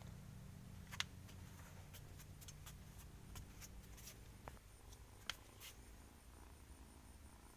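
Near silence: room tone with faint, scattered clicks and ticks, two of them a little sharper, about a second in and about five seconds in.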